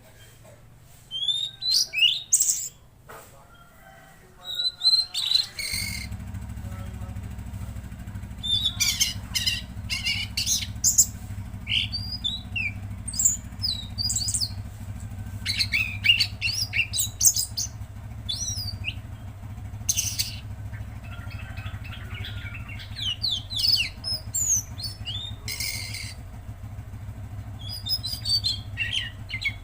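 A Tledekan Laut songbird singing in quick, high chirping phrases and trills, broken by short pauses. A low steady drone starts about six seconds in and runs under the song.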